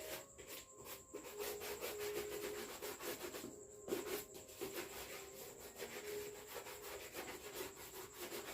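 Quick, repeated rubbing strokes on a leather school shoe, as a shoe is rubbed or brushed while it is polished with Kiwi shoe polish. A faint steady hum sits underneath.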